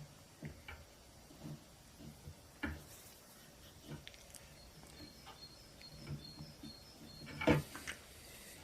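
Scattered light clicks and knocks, with one louder knock about seven and a half seconds in, over faint high chirping.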